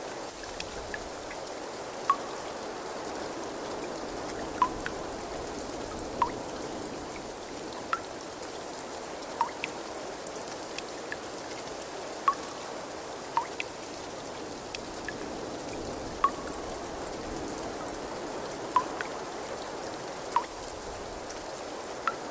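Steady trickling, flowing water with single water drops plinking into it every second or two.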